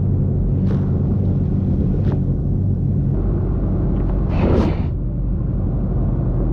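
Sport motorcycle engine idling steadily as a low hum, with a few faint clicks and a brief whoosh about four and a half seconds in.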